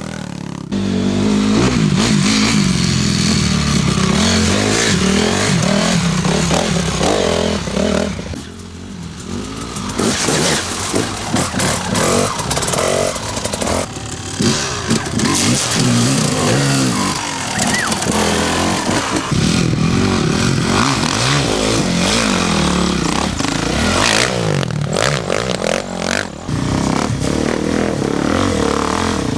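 Enduro dirt-bike engines running and revving over the course, their pitch rising and falling with the throttle, with some clatter.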